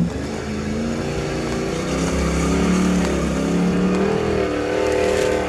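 Modified 4x4 truck engine revving under load, its pitch rising and falling, as the truck works through the tank trap's water holes and rough ground.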